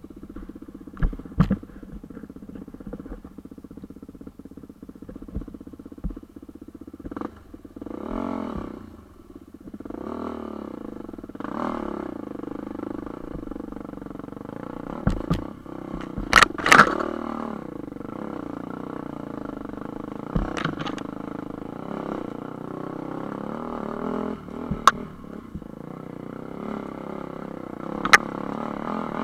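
Motor vehicle engine pulling uphill under throttle on a rough mountain track, its revs rising and falling. Now and then a sharp knock or clatter cuts through, the loudest a pair about halfway.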